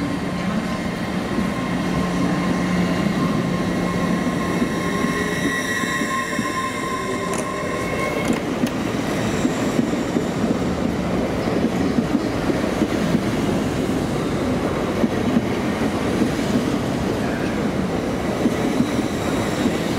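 A train running on the rails. A steady hum and a high whine stop about eight seconds in, then a heavier rumble of wheels with repeated clacks over the rail joints.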